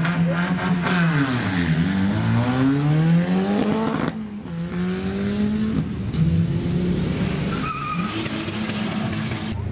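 Turbocharged 2-litre VW Golf 3 drag car launching from the start line. The engine is held at steady high revs, dips as the car moves off about a second and a half in, then climbs through the gears, with shifts about four and six seconds in. A high whistle rises near the end.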